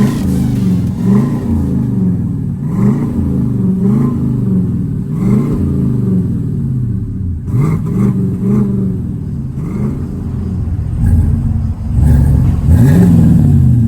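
Exhaust of a 2019 GMC Sierra 1500's 5.3-litre V8 through a Flowmaster 50-series true dual exhaust, revved in a series of quick throttle blips, each rising and falling in pitch, about one every second or so. The loudest rev comes near the end.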